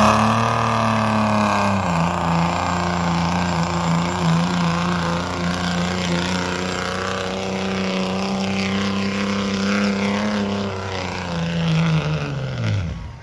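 Diesel pickup truck engine held at high revs, its pitch dipping slightly about two seconds in, then holding steady before falling away as the throttle is released near the end.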